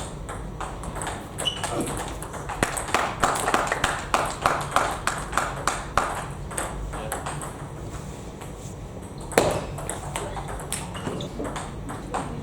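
Table tennis ball clicking off bats and the table in a rally: a quick, even run of hits at about three a second between roughly three and six seconds in, then scattered clicks. One sharper, louder knock comes a little past nine seconds.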